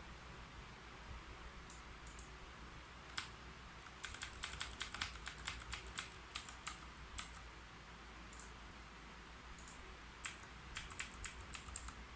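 Typing on a keyboard: a few scattered keystrokes, then a fast run of them starting about four seconds in and lasting some three seconds, a pause, and another quick run near the end.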